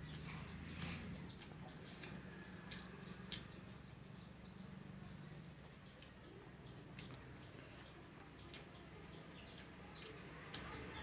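A small bird chirping over and over in a quick run of short, high, falling chirps. Now and then there are sharp clicks of someone eating, the loudest about a second in, over a low steady hum.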